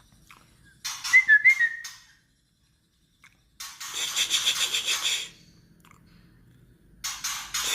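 White-rumped shama giving its rapid rattling 'kretekan' call, the harsh challenging call that keepers use to rouse other birds, in three bursts with a couple of short clear whistled notes in the first.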